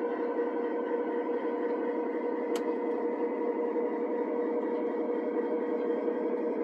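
Model train locomotive running slowly in reverse with a steady electric hum, as the train is backed down a grade. A single sharp tick comes about two and a half seconds in.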